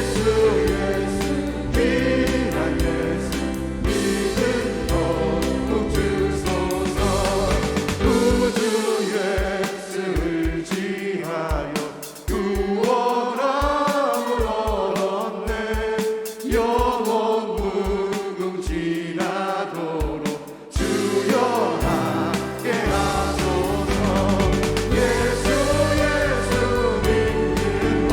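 A church praise team singing a worship song with band accompaniment. The bass drops out for a lighter passage in the middle and comes back in about three-quarters of the way through.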